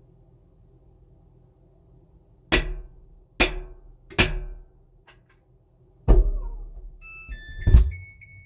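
A phone knocking hard against a washing machine drum: three sharp knocks under a second apart, then two heavier ones. Near the end a run of held electronic beeps at different pitches sounds alongside.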